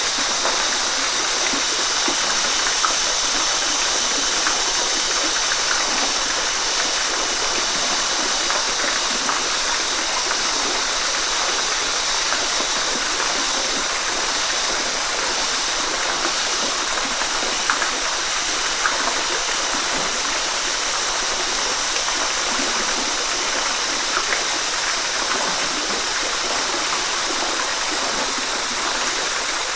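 Waterfall: water pouring and splashing in a steady, even rush, with small splashes here and there.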